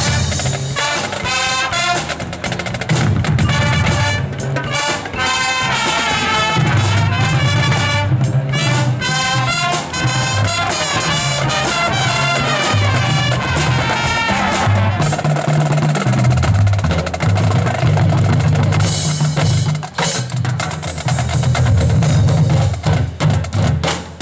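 High school marching band playing: brass melody over the drumline, with bass and snare drums. About fifteen seconds in the brass drops back and the drums carry on.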